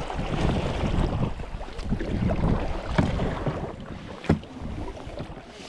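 Water sloshing around a kayak with wind buffeting the microphone, and two sharp knocks, the louder one a little over four seconds in.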